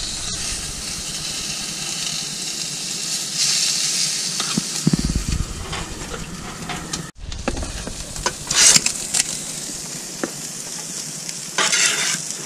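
Food sizzling on a hot portable gas barbecue and in a camp-stove frying pan, a steady frying hiss, with occasional clicks and scrapes of tongs and a spatula on the grill.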